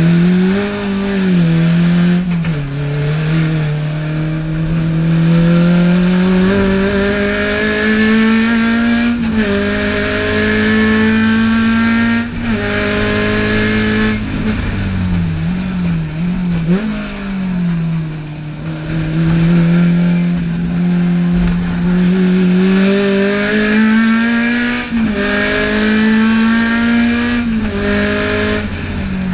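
Race-tuned Alfa Romeo twin-cam four-cylinder engine heard from inside the cabin, pulled hard to high revs with its pitch climbing through each gear and dropping sharply at each upshift. Around the middle the revs fall away with a few quick dips and blips, as on downshifts into a corner, then climb through the gears again.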